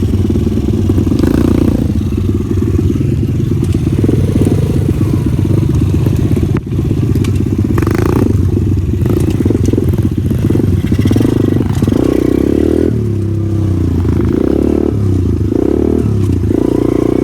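Pit bike engine running under load while being ridden, the revs rising and falling repeatedly as the throttle is worked.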